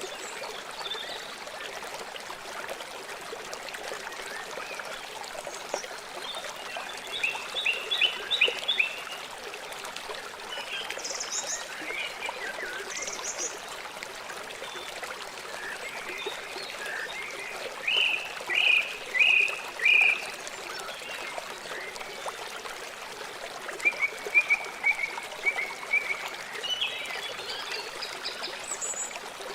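River or stream water flowing steadily. Over it, wild animal calls come in short series of a few quick notes, three bursts of them, the loudest near the middle, with a couple of brief higher calls between.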